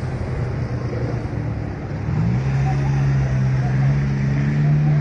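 A road vehicle engine running close by over street traffic noise. About two seconds in, its hum rises in pitch and then holds steady.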